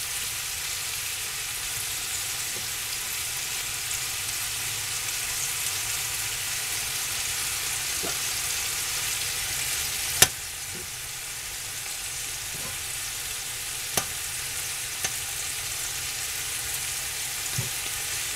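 Ribeye steaks and trumpet mushrooms sizzling steadily in a hot skillet. A few sharp clicks sound over the sizzle, the loudest about ten seconds in.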